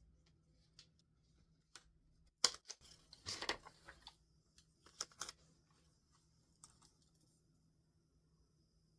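Stationery and paper handling on a desk: a sharp tap, a short rustle of paper, then two quick clicks about five seconds in.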